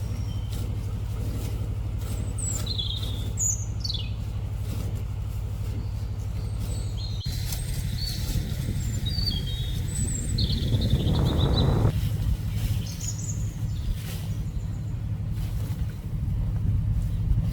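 Birds chirping and calling, short high notes scattered throughout, over a steady low motor drone that swells louder for a moment around eleven seconds in.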